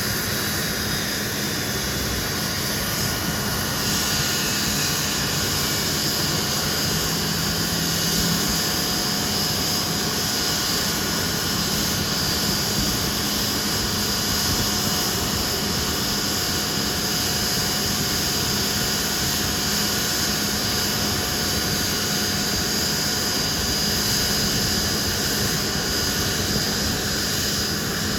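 Hawker Siddeley Nimrod's Rolls-Royce Spey turbofan engines running steadily on the ground, a constant jet noise with a high whine over it.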